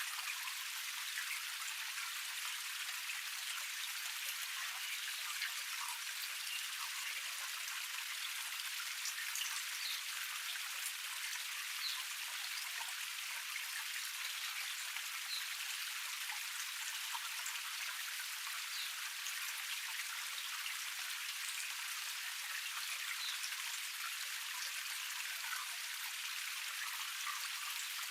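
Water of a small cascade splashing and trickling over rocks: a steady hiss spotted with many small drips and splashes.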